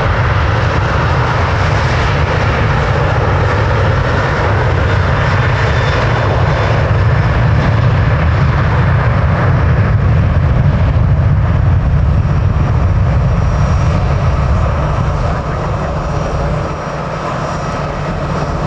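Jet airliner's engines, a loud steady rush with a heavy low end that eases slightly near the end.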